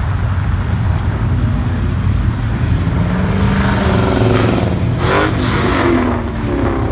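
Car engine revving over a steady low rumble, its pitch climbing from about three seconds in and loudest a second or so later.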